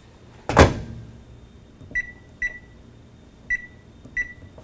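Microwave oven door shutting with a thump, then four short high keypad beeps at uneven spacing as the power level and cooking time are entered.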